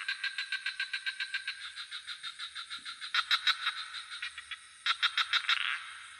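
Frogs calling in fast pulsed trains, about seven pulses a second, with louder bursts of calling in the middle and near the end, over a steady high-pitched insect trill.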